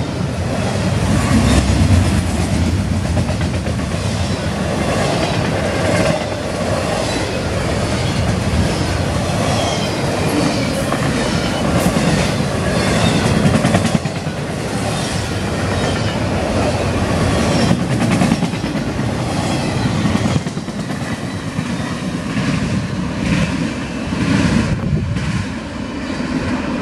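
Double-stack intermodal container train rolling past: a steady rumble from the well cars, with rhythmic clicking as the wheels cross rail joints. It becomes a little quieter over the last several seconds as the end of the train goes by.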